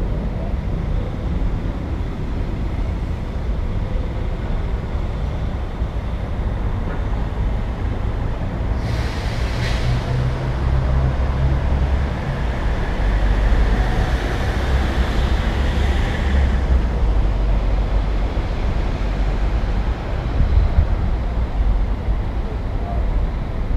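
City street traffic: a steady low rumble of engines. About nine seconds in, a passing vehicle adds a hissing whoosh that lasts some seven seconds before fading.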